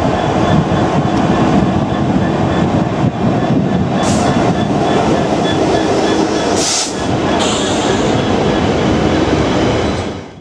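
GB Railfreight Class 66 diesel locomotive running through a station at the head of a container freight train: a steady engine hum over a heavy rumble of wheels on rails as the locomotive and then the container wagons pass. Short hissing squeals come about four seconds and seven seconds in, and the sound fades out near the end.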